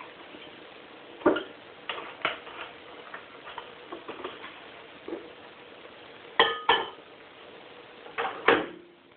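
Kitchen things being handled: a run of knocks and clicks, with two sharp clicks close together about six and a half seconds in and two more knocks near the end.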